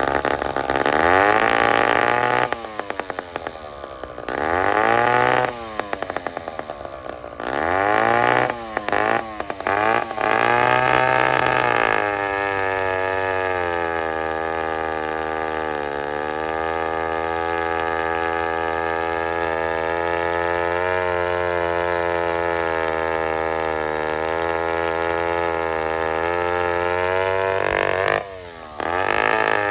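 Vintage two-stroke chainsaw engine revved up and down four or five times, then settling into steady, even running, with one more quick rev near the end.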